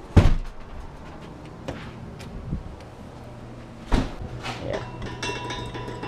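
A few sharp knocks and clanks, the loudest just after the start and another about four seconds in, over a steady low hum.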